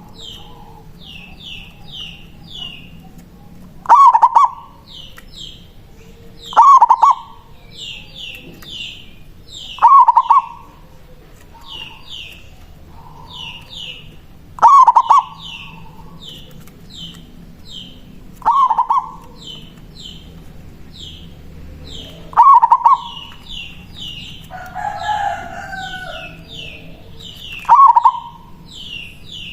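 Zebra dove (perkutut) calling: a loud, short cooing phrase repeated seven times, every three to five seconds. A small bird's quick high chirps run between the calls.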